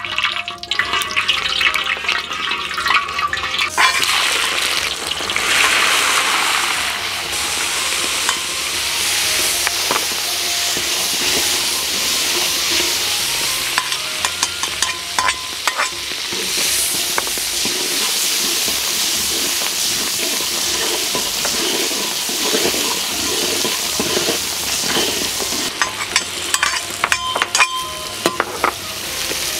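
Hot rapeseed oil and lard sizzling in a large iron wok. The chopped aromatics (scallion, garlic, pickled ginger, pickled chilies) hit the oil with a loud hiss about four seconds in, then fry steadily while a metal spatula stirs. The spatula clicks against the wok at the start and again near the end.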